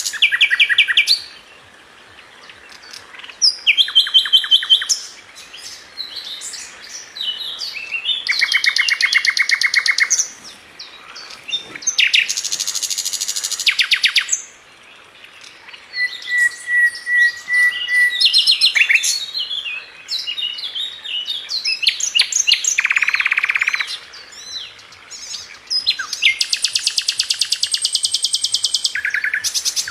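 A flycatcher of the kind sold as 'sikatan London' singing: a string of phrases a few seconds apart, mostly fast high buzzy trills, with one phrase near the middle made of a few short even notes at a single pitch.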